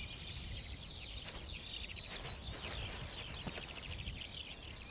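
Several small birds chirping and twittering at once, many short rising and falling calls overlapping throughout, over a low steady rumble.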